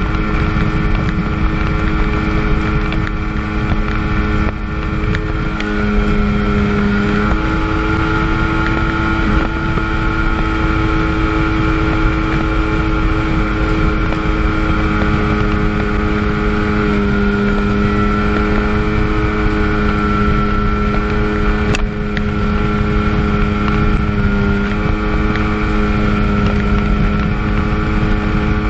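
1997 Sea-Doo GTS jet ski's 720 two-stroke twin running at high, steady rpm under way, its pitch shifting slightly around six seconds in and again later, with wind rushing over the microphone.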